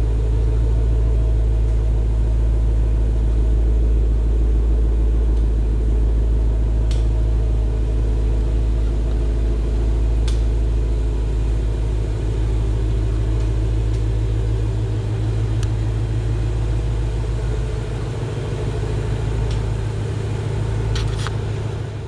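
2020 Shelby GT500's supercharged 5.2-litre V8 idling steadily after a cold start, with a deep, even rumble. A few faint clicks are heard over it.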